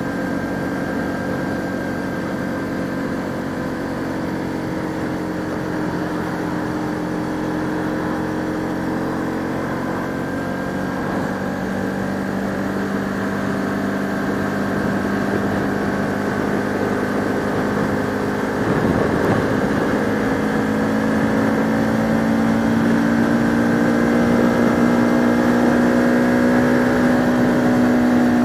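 Bajaj Pulsar RS200's single-cylinder engine running under way, heard from the rider's helmet. The engine note holds steady, then rises gradually through the second half as the bike speeds up.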